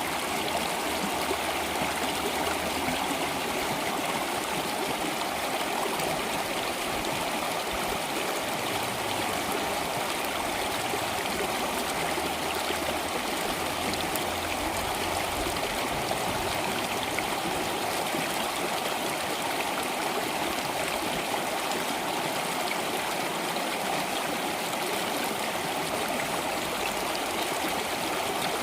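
Water flowing steadily in a stream, an even rushing with no breaks.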